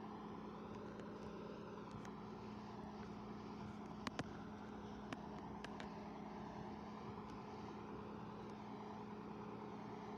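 Vehicle engine idling steadily, with a few faint clicks about four to five seconds in.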